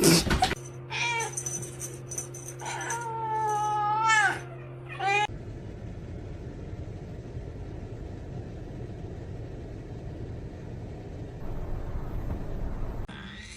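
A domestic cat meowing: three calls in the first five seconds, the middle one long and drawn out. A short clatter comes right at the start, and steady background noise follows the calls.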